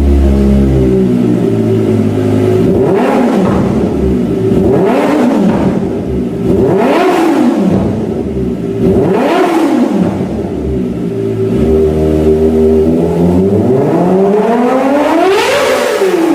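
Kawasaki ZX-25R's inline-four engine through a GP Tech Zeus short exhaust, revved from idle in four quick blips that rise and fall. Near the end it winds up in one longer, higher rev.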